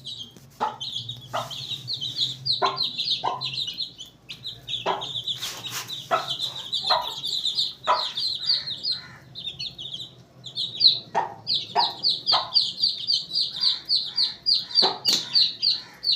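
Chickens clucking, with a fast run of high-pitched chirps over the clucks that pauses briefly about four and ten seconds in.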